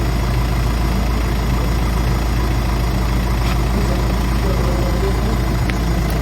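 A steady, low engine-like drone that does not change, with a couple of faint clicks.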